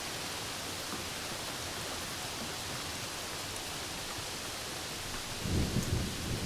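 Steady rain falling as an even hiss, with a short low rumble of thunder breaking in about five seconds in.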